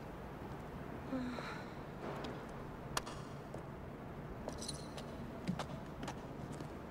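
Faint steady low hum of background ambience, broken by a few scattered light clicks and knocks, the sharpest about three seconds in.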